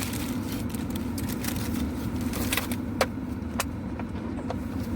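Steady low rumble of a car's engine idling, heard from inside the parked car, with a few sharp clicks and taps in the second half as a plastic food container is handled.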